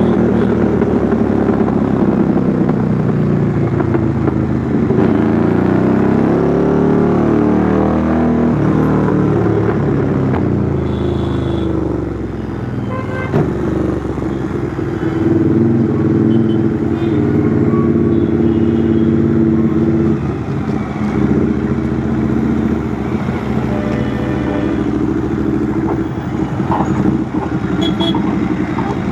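Royal Enfield Interceptor 650's parallel-twin engine through a custom 2-into-1 exhaust, ridden in city traffic. The exhaust note rises and falls with the throttle, eases off about twelve seconds in, then holds steadier.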